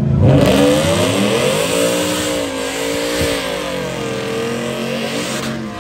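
A drag-racing truck's engine accelerating hard. Its pitch climbs quickly at the start, then holds high with slow rises and dips as it keeps pulling, and there is a single sharp click about three seconds in.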